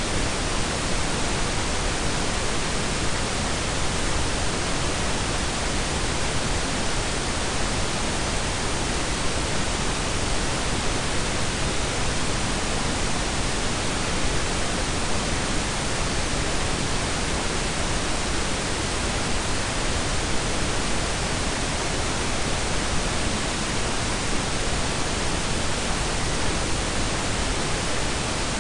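Steady blend of pink and brown noise: an even, unchanging hiss with a deep rumble beneath, without any tones or events.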